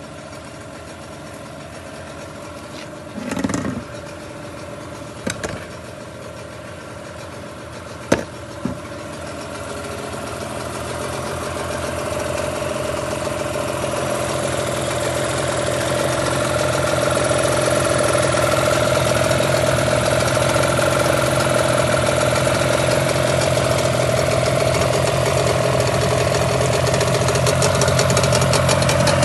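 Boat outboard motor running steadily, with a few short knocks in the first third. It grows louder from about a third of the way in and then holds an even run.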